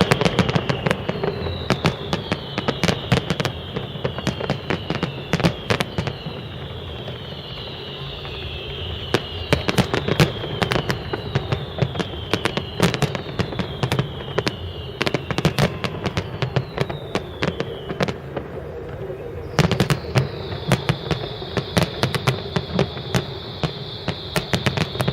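Fireworks display: rapid bangs and crackling, with a run of high whistles that each fall in pitch, one about every second, and a steadier high whistle near the end.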